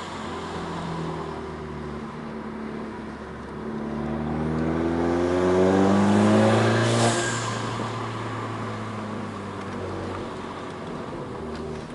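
Tuned Seat Ibiza Cupra 6J 1.4 TSI four-cylinder with DSG, at stage 2+, running under load. The revs rise steadily for about three seconds to the loudest point, then a sharp exhaust crack comes about seven seconds in. Engine sound carries on lower after it, with a fainter crack near the end.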